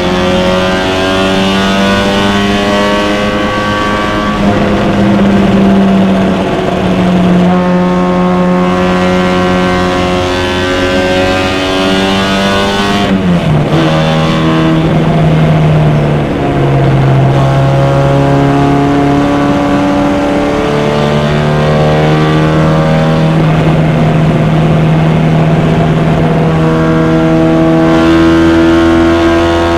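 Vintage MG race car's four-cylinder engine running hard under racing load, heard from inside its open cockpit. The pitch holds steady for several seconds at a time and drops sharply about halfway through before settling again.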